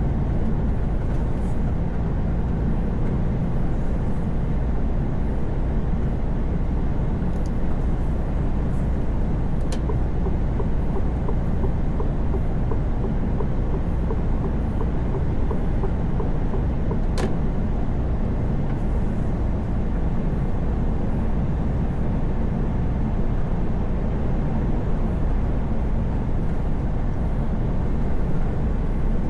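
Semi-truck cruising on a highway: a steady, unchanging low engine drone and road rumble, with two brief clicks, one about ten seconds in and one about seventeen seconds in.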